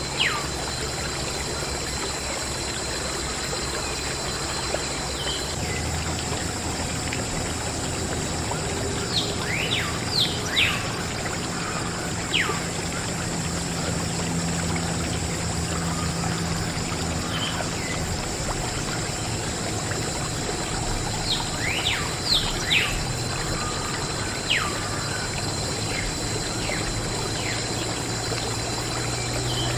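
Water pouring in a steady stream, with short bird chirps several times.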